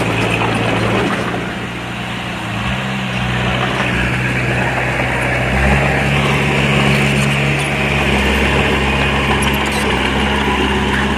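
Diesel engine of heavy earthmoving equipment running steadily, its engine speed shifting up and down in a few steps.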